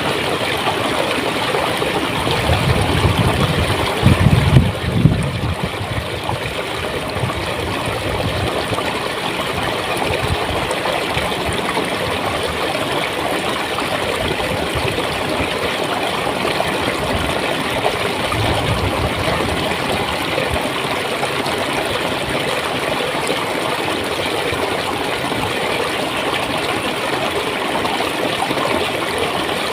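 Stream of clear water flowing and gurgling in a steady rush. Louder low rumbles come about three to five seconds in and again briefly just past the middle.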